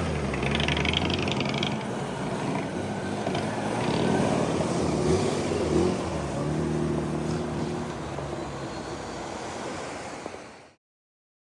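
Car engine running, its pitch shifting a few times. The sound cuts off abruptly near the end.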